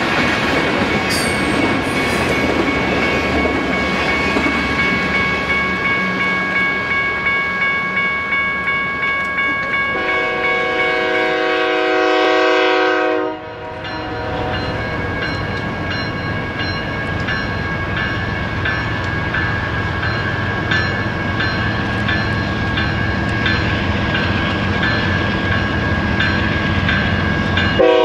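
A double-stack intermodal freight train rolling past, its wheels clicking over rail joints, with a multi-note locomotive horn sounding for about three seconds shortly before the sound cuts abruptly. It is followed by an oncoming freight led by five GE diesel locomotives, engines working under load with a rumble that grows as it nears, wheels clicking steadily.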